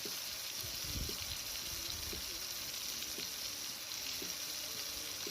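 Meat sizzling steadily on a hot griddle, with a few soft low knocks about a second in.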